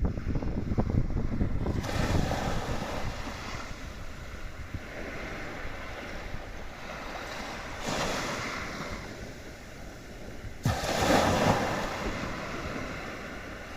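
Waves washing on a shore, with wind buffeting the microphone as a low rumble. The surf rises and falls in swells, the loudest breaking suddenly about eleven seconds in.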